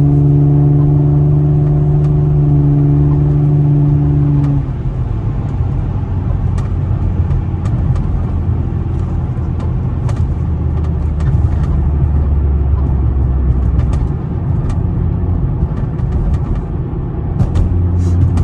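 Infiniti G35 Coupe's 3.5-litre V6 with Motordyne exhaust, heard inside the cabin with the windows up: a steady engine drone that drops lower and quieter about four and a half seconds in, then a low hum with rumble as the car cruises.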